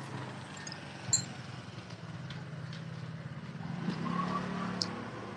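A motor vehicle's engine running close by, getting louder about four seconds in as it comes nearer, with a sharp click about a second in and a few lighter ticks.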